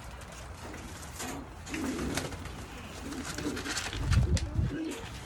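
Racing pigeons cooing, several low wavering coos. A dull low thump or rumble about four seconds in is the loudest sound, with a few light clicks scattered through.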